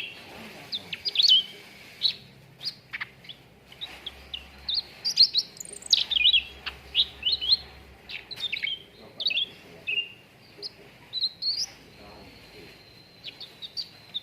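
Cucak ranting singing: a fast, irregular run of short, sharp chirps and quick whistled notes sliding up and down.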